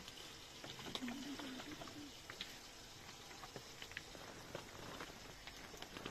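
Light rain falling: a soft steady hiss with scattered drips.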